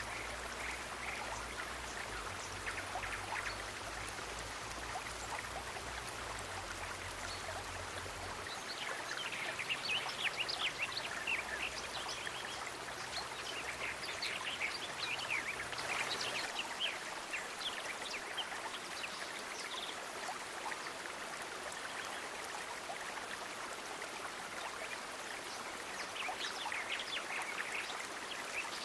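Steady rush of flowing water, with clusters of short, high-pitched ticks rising over it twice. A low hum underneath stops about eight seconds in.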